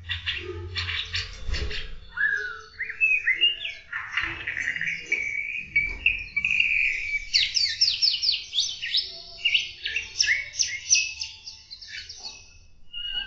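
Aviary songbirds singing: a stream of chirps and long warbled phrases, then a run of rapid, quick-repeated sweeping notes in the second half.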